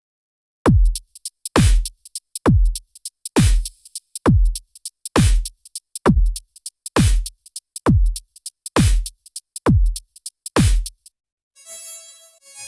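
Beatboxed loop-station beat: a deep kick that drops sharply in pitch, about once a second, with quick hi-hat-like clicks between, starting about half a second in and stopping shortly before the end. Then a sustained tone with several pitches at once comes in.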